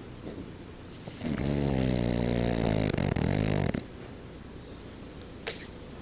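French bulldog snoring: one long, loud, buzzing snore starting about a second in and lasting some two and a half seconds, then quieter breathing.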